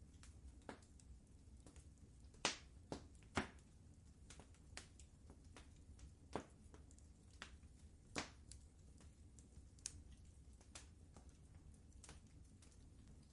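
Wood fire crackling in a fireplace: irregular sharp pops and snaps over a low steady rumble, the loudest pops coming about two and a half and three and a half seconds in.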